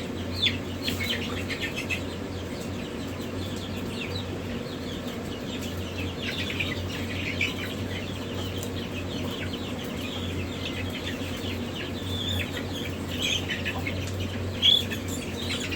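Many newly hatched chicks peeping: a constant stream of short, high cheeps, with one louder peep near the end, over a steady low hum.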